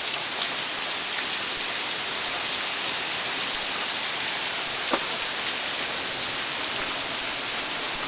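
Torrential downpour: heavy rain falling and pattering on surfaces as a dense, steady hiss.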